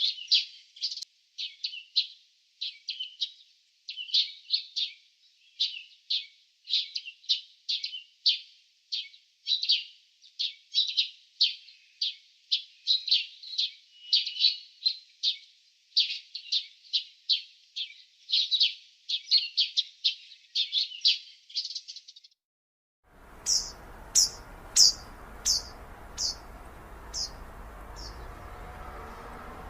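Small birds chirping: a fast, unbroken run of short, bright chirps, two or three a second, that stops about 22 seconds in. After a second of silence, a steady outdoor hiss comes in with a run of about eight higher, thinner chirps, and then only the hiss is left.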